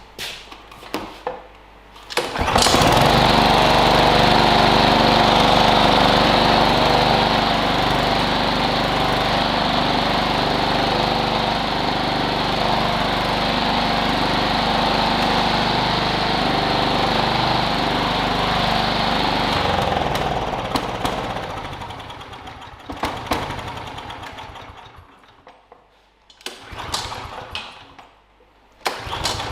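Briggs & Stratton DOV overhead-valve engine on a KLIPPO Pro 19 lawn mower starting after a few clicks, about two seconds in, on a test run after a carburettor intake gasket change. It runs steadily, then dies away from about twenty seconds in, and a few sharp knocks follow near the end.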